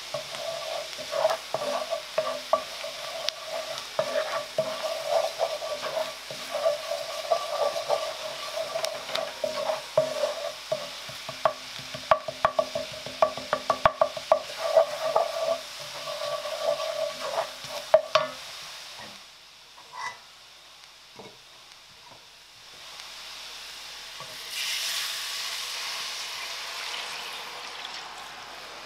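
Butter, red onions and flour sizzling in an enamelled cast-iron pot while a wooden spatula stirs and scrapes quickly, with many sharp clicks. The stirring stops abruptly after about 18 s, leaving a few light knocks. Near the end, liquid poured into the hot pot sets off a steady hiss.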